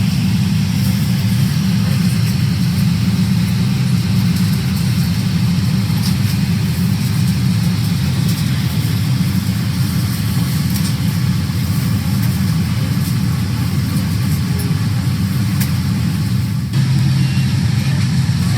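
Steady low drone inside the passenger cabin of a Cathay Pacific Boeing 777-300ER, engines and airflow, with a faint hiss above it. Near the end there is a brief dip, after which the drone continues slightly changed.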